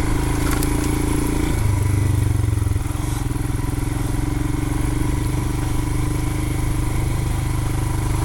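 2020 Royal Enfield Himalayan's 411 cc single-cylinder engine running at low trail speed, the note changing briefly about two seconds in and then running steadily.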